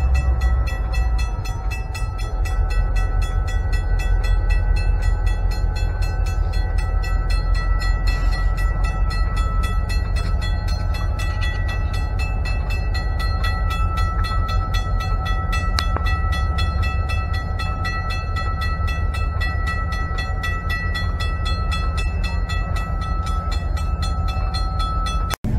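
Diesel locomotive engine rumbling as it moves slowly up to a grade crossing, while the crossing bell rings steadily with fast, even strikes.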